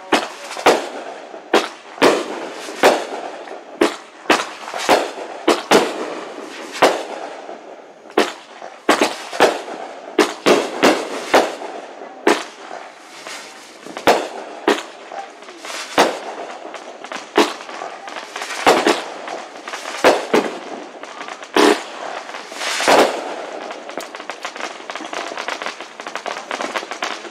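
Aerial fireworks going off in rapid, irregular succession: many sharp bangs of bursting shells over a continuous crackle. The loud bangs thin out near the end.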